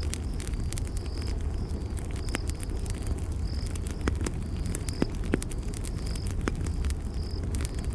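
Campfire crackling: sharp pops and snaps over a steady low rumble of the burning wood. A short high insect chirp repeats about once a second.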